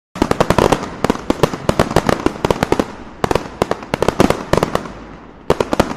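A 3.5-inch aerial firework shell (Metro Fireworks Green Dragon) bursting into crackling: many sharp pops fired off in rapid, dense volleys. The volleys come in three waves: one from the start, a second about three seconds in, and a third near the end.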